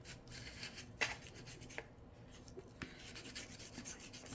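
A Hass avocado's tough skin being peeled and handled by hand: faint scratching and rubbing, with sharp clicks about a second in and again near three seconds.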